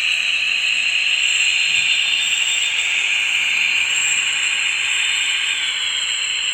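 N gauge sound-fitted model locomotive running on the layout: a steady, high-pitched whirring hiss from the model train, with no horn in this stretch.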